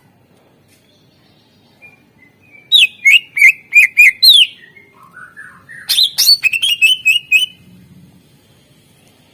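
Cucak ijo (green leafbird) singing. After a pause come about five loud, sharp chirping notes, then a short, softer, lower warble, then a quick run of chirps about six seconds in.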